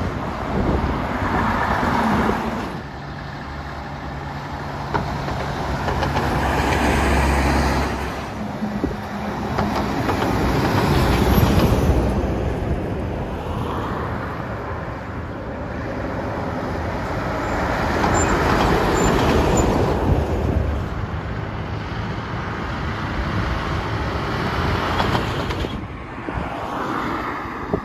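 Heavy trucks driving past one after another, engine and tyre noise swelling and fading several times.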